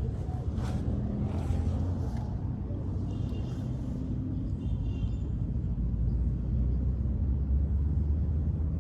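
A vehicle engine running with a steady low rumble, growing somewhat louder in the last few seconds.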